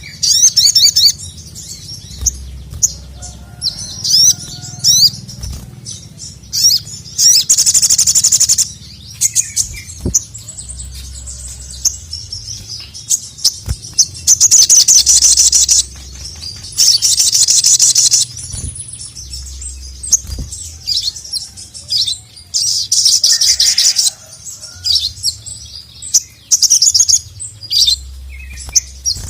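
Sogon (sogok ontong), a nectar-feeding songbird, singing in full cry: loud, high-pitched rapid trills lasting a second or two each, about five times, with short chirps in between, over a low steady hum.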